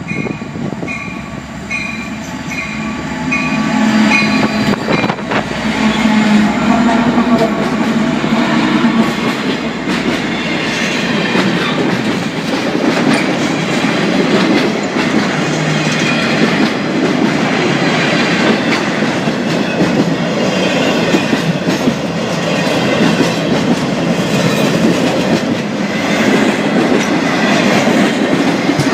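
A train passing close by on the tracks. Its rolling, clattering noise builds over the first few seconds and then holds steady. A short, repeated ringing tone sounds about twice a second at the start.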